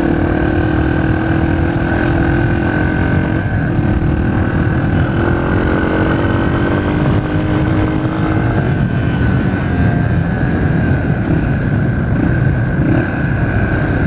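Dirt bike engine running steadily while being ridden, heard from inside the rider's helmet through a cheap microphone in the cheek pad, with a dense low rumble under the engine note. The engine note holds fairly even for the first half, then becomes less steady.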